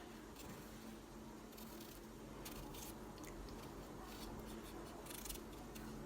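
Faint, scattered scraping strokes of a knife peeling a raw potato, over a low steady hum.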